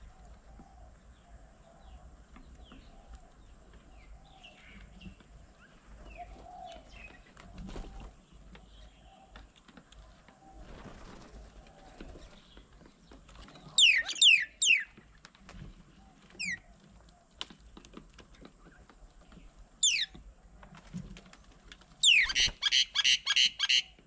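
Birds calling: faint chatter at first, then loud, sharp downward-sweeping calls in short clusters from about halfway in, ending with a fast run of about seven calls.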